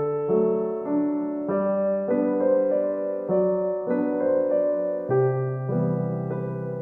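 Background piano music: a gentle piano piece with notes and chords changing about every half second.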